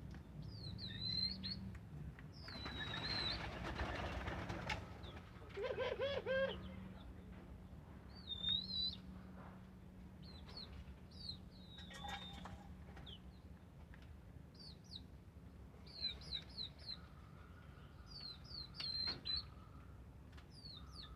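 Small birds chirping in many short, high calls, with a burst of wing flapping about three seconds in, over a low steady hum.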